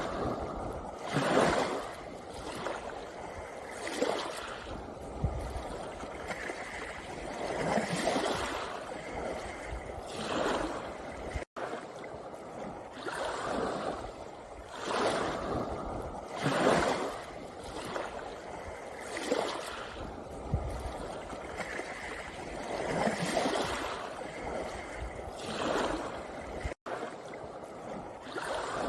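Small sea waves washing in over a pebble beach, surging every two or three seconds. The sound cuts out for an instant twice.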